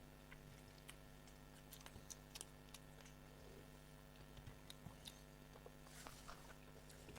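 Faint chewing and small scattered clicks of someone eating, over a low steady hum.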